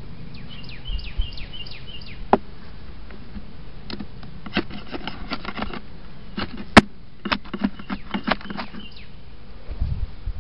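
Honeybees buzzing in an opened hive over a steady low hum, with sharp wooden clicks and knocks as hive frames are handled; the loudest, single knock comes about two-thirds of the way in. A bird sings a run of short falling chirps twice, near the start and near the end.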